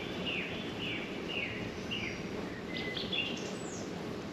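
A small bird singing: a run of about five short notes, each falling in pitch, over the first two seconds, then a few shorter and higher notes. Underneath is a steady low background noise.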